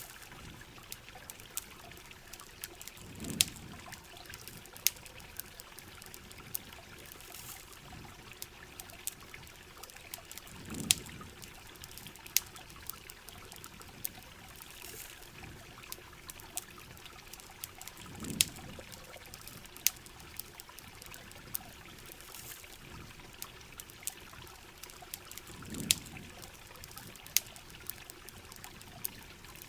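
Steady rain with a trickle of running water and many sharp crackling clicks, as from a campfire. A low, dull thud with a click recurs four times at even intervals of about seven and a half seconds.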